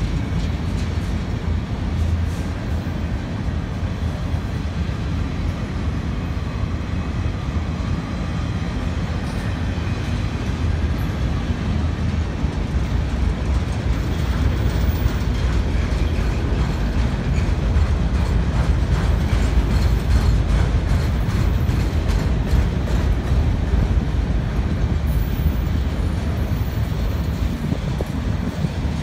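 Freight train of autorack cars rolling past close by: a steady rumble of steel wheels on the rails with faint clicks, swelling a little midway.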